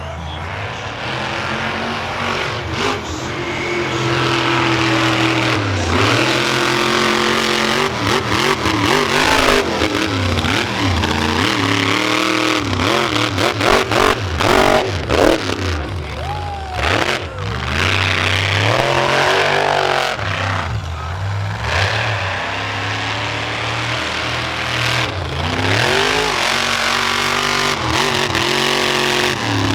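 Monster truck engine revving hard and repeatedly, its pitch rising and falling as the throttle is worked. There is a cluster of sharp bangs about halfway through.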